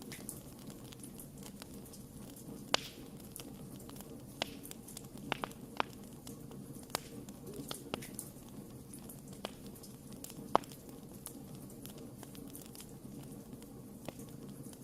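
Wood fire crackling: irregular sharp pops and snaps, the loudest about three seconds in and again past ten seconds, over a low steady rumble of the burning.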